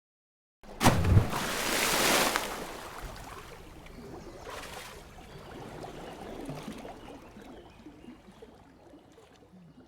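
Something falling with a sudden crash about a second in, followed by a loud rushing, splashing wash of noise that gradually fades away over several seconds, with a smaller surge midway.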